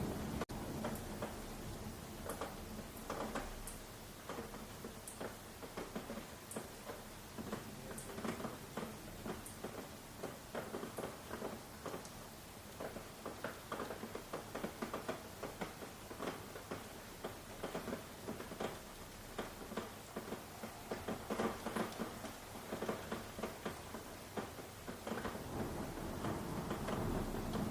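Rain falling, many irregular drops pattering over a steady hiss; it grows heavier and fuller near the end.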